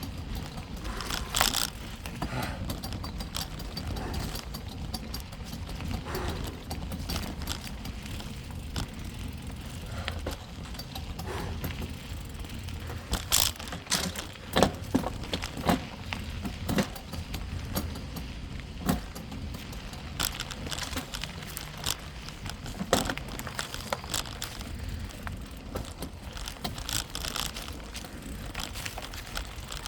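Bicycle ridden over a rough dirt trail: a steady low rumble from the tyres, broken by frequent sharp rattles and clicks from the bike jolting over bumps, thickest around the middle.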